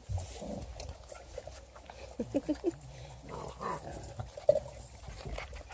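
Beagle puppies, about seven and a half weeks old, making short, scattered vocal sounds as they play and chew, with a cluster of them about two seconds in.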